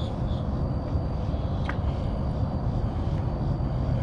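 Steady low outdoor rumble, with a single faint click about one and a half seconds in.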